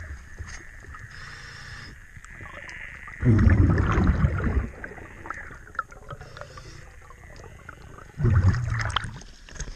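Scuba diver's exhaled bubbles gushing from the regulator under water, twice about five seconds apart, each lasting over a second. Between breaths a steady high tone and a faint crackle of small clicks carry on.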